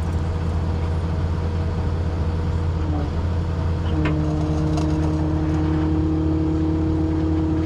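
Tow truck engine idling with a steady hum. About four seconds in, a steady whine joins it as the hydraulics run the wheel-lift, and it cuts off with a click near the end.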